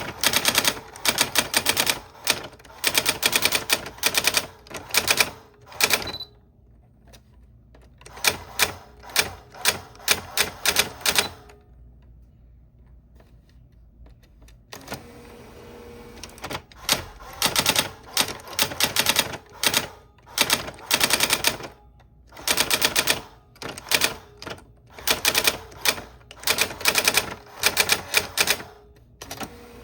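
Old typewriter being typed on: runs of rapid keystrokes, with short pauses between them and a longer pause near the middle.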